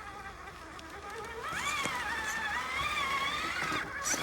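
Electric motor and gear drive of an Axial SCX10 III RC crawler whining under throttle. The whine climbs in pitch about a second and a half in, then holds with small wavers as the truck crawls.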